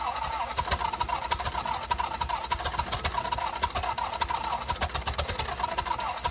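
Engine of a Lincoln SA-200 welder running steadily in a quick, even rhythm of firing pulses.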